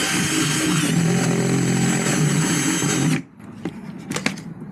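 Power drill running steadily as it bores a hole through a plastic rubbish bin, stopping abruptly about three seconds in, followed by a few light knocks.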